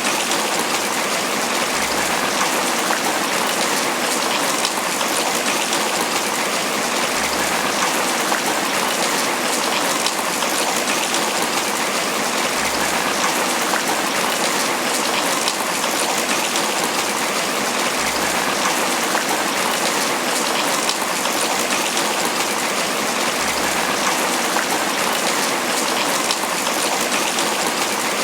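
Steady tropical rain pattering on banana leaves.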